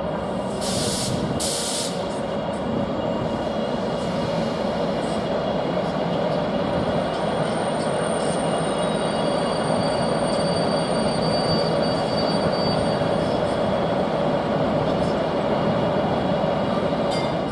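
Train running through a station: a steady rumble with thin, high-pitched wheel squeal. Two short hisses come about a second in.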